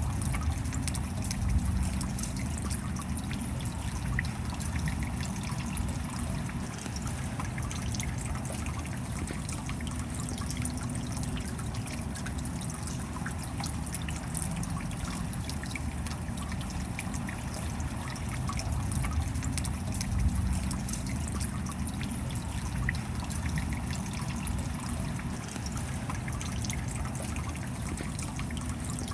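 Steady rain with water trickling and dripping, a dense patter of small drop ticks over a low rumble.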